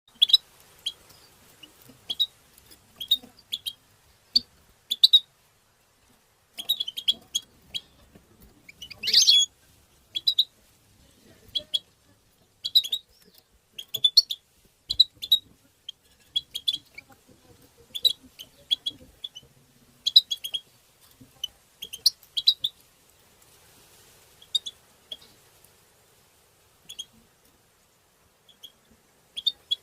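European goldfinch giving short, sharp chirping call notes in quick clusters with pauses between them, with one longer buzzy burst about nine seconds in.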